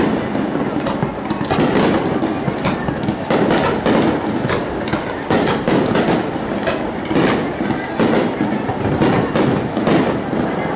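Aerial fireworks shells bursting in quick succession: many sharp cracks and bangs, several a second, over a continuous wash of noise.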